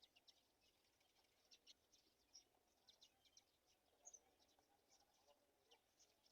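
Faint bird chirps: short, high calls repeated irregularly, several a second, over a low background hiss.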